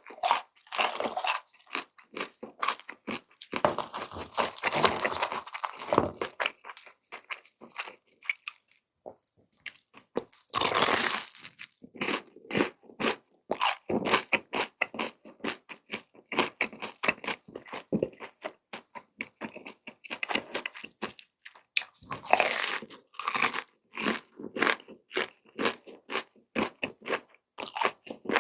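Close-miked mukbang eating: chewing and biting of grilled rice cakes, with many small crunches and mouth clicks, and louder crunching bites about 11 seconds in and again around 22 seconds.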